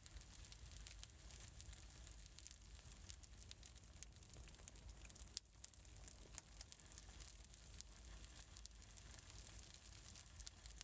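Faint fireplace crackle: a steady low rumble and hiss of burning logs with frequent small, irregular pops and snaps.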